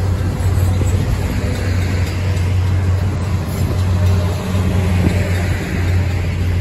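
Freight train boxcars rolling past at speed, with a steady rumble of wheels on the rails.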